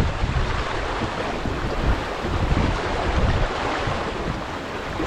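Wind buffeting the microphone in irregular gusts over the steady rush of water along the hull of a sailing yacht under way.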